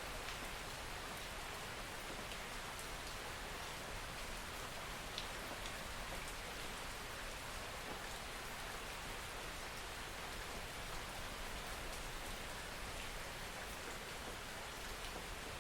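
Steady rain falling, a soft even hiss with scattered individual drop ticks.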